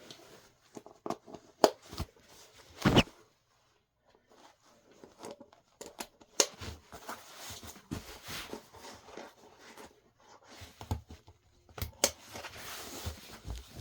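Knee pads and their packaging being handled: scattered clicks and light knocks, then a stretch of rustling near the end.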